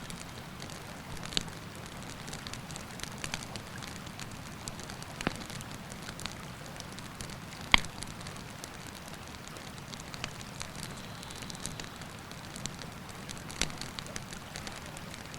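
Wood campfire crackling, with sharp pops at irregular intervals and one louder pop about halfway through, over the steady rush of a river.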